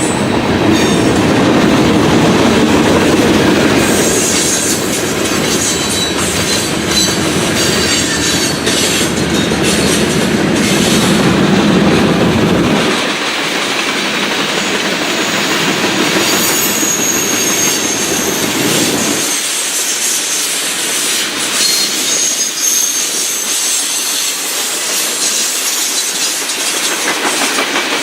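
Freight cars of a Norfolk Southern train rolling past with wheels clicking over the rail joints and a thin high squeal from the wheels. A heavy low rumble drops away about halfway through, leaving mostly the lighter rattle and clatter.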